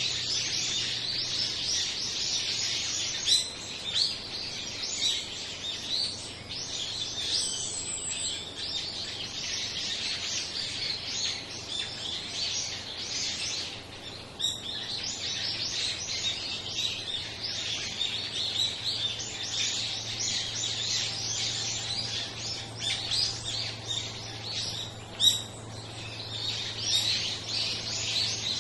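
A flock of small birds chirping and calling over one another without pause, many short high calls crowding together, with one sharper, louder call or knock standing out about three quarters of the way through.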